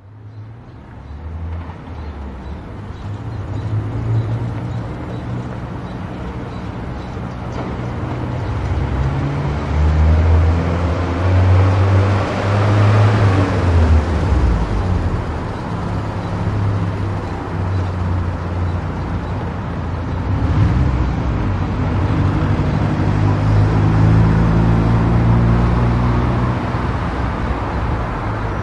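A car driving on a highway: steady tyre and road noise under a low engine hum that shifts in pitch now and then. It rises over the first few seconds and swells in the middle.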